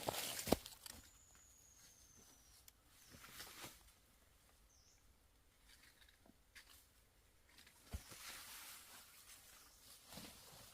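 Faint rustling and a few soft knocks, with a thin high whistle that falls slightly in pitch about a second in.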